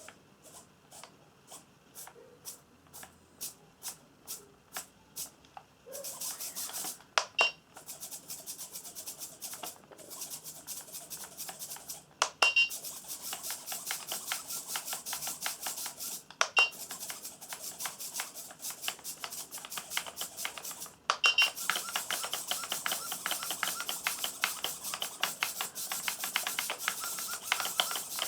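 Micro RC helicopter's small electric motor and rotor running from about six seconds in, with a fast, fine buzz that cuts out briefly several times. A steady ticking of two or three clicks a second comes before the motor starts.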